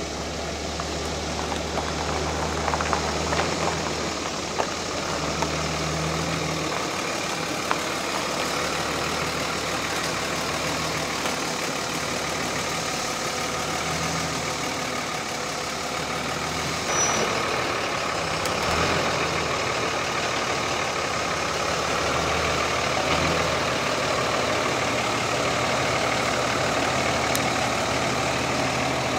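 One-ton dually pickup truck's engine idling and creeping at low speed, a steady low hum that swells and eases, with a few light clicks.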